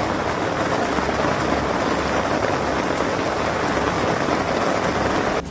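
Heavy rain pouring down onto a wide paved road: a loud, steady, dense hiss that cuts off abruptly just before the end.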